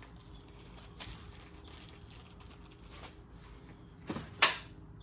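Tools and small engine parts being handled during engine teardown: a few light clicks, then one sharp knock about four and a half seconds in.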